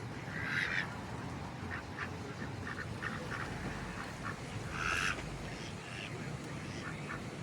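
A group of ducks quacking, a string of short calls with two louder ones about half a second in and around five seconds.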